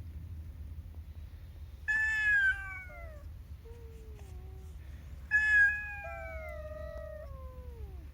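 Two long, loud animal cries, each a high pitched call that slides downward, with a shorter fainter one between them, over a steady low rumble.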